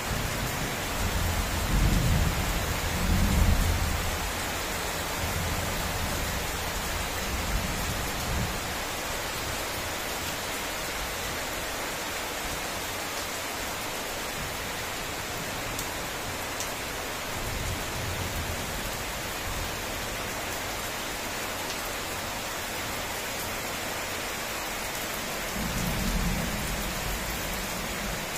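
Heavy rain falling steadily on trees and ground, an even hiss. Several low rumbles rise over it, the loudest in the first few seconds, with weaker ones near the middle and near the end.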